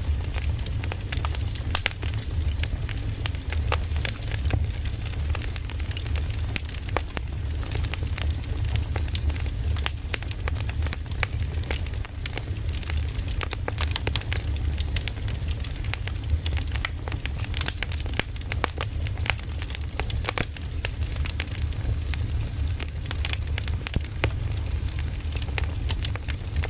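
Campfire crackling: wood popping in many irregular sharp snaps over a steady low rumble.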